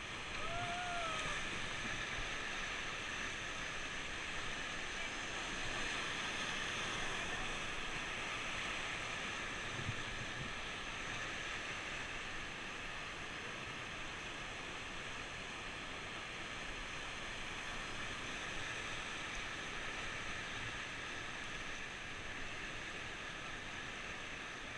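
Steady rushing of fast river water over rapids on the Beas River. A brief shout rises and falls in the first second or so.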